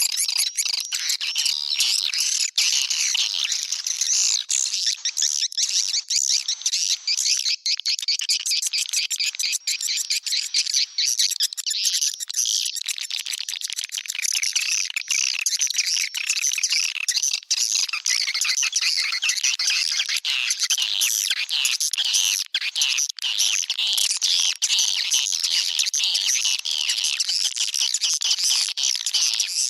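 Swiftlet lure call: a dense, unbroken twittering of many rapid chirps from edible-nest swiftlets, the recorded 'calling sound' played from swiftlet houses to draw the birds in to nest.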